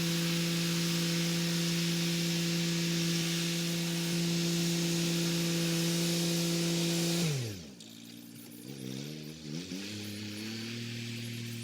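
Kubota SL35 tractor's diesel engine running steadily at working revs, with the rotary tiller's hiss over it. About seven seconds in, the engine note falls sharply and the sound drops away, as the revs come down. The note wavers for a moment, then settles into a lower, quieter steady idle.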